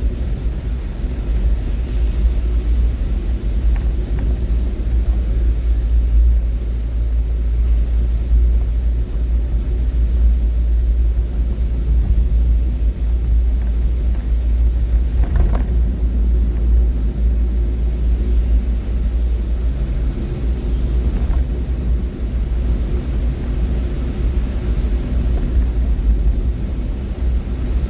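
Steady low rumble of a vehicle on the move, road and engine noise running evenly, with a single faint click about halfway through.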